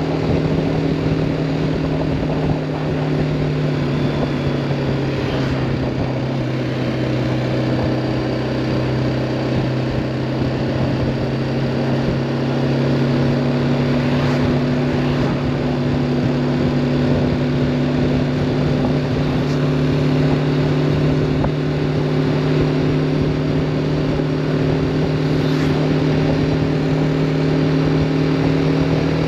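2018 BMW G310R motorcycle's 313 cc single-cylinder engine running at a steady engine speed, heard from the rider's seat.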